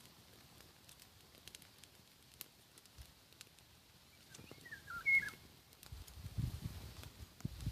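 A nightingale gives one short, wavering song phrase about five seconds in, over faint scattered crackles of a campfire. In the last two seconds a low, uneven rumbling noise comes in.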